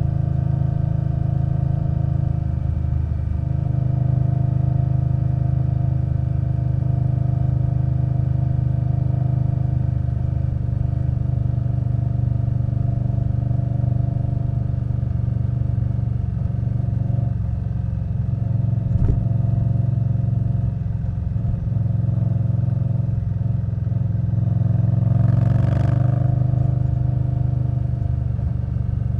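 Indian Scout Bobber Twenty's V-twin engine running through a Vance & Hines Twin Slash exhaust while riding at a fairly steady speed, the engine note shifting a little a few seconds in. There is a single click partway through, and a brief rush of noise with the engine note rising near the end.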